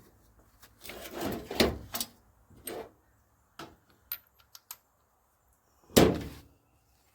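Clunks, scrapes and clicks of tools being handled while getting ready to take a truck's wheel off, with a longer clatter in the first couple of seconds and one loud knock about six seconds in.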